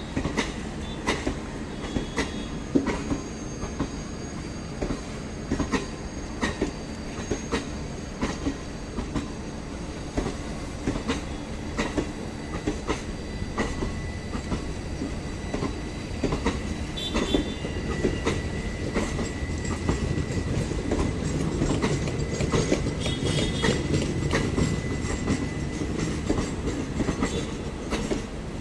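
MEMU electric multiple-unit train running on the rails, its wheels clattering irregularly over rail joints over a steady rumble, with a thin steady high whine; the sound grows louder in the last third.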